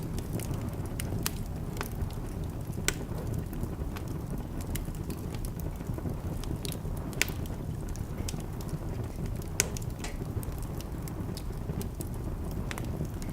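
Wood fire in a fireplace burning with a steady low rush and scattered sharp crackles and pops, the loudest three coming about 3, 7 and 10 seconds in.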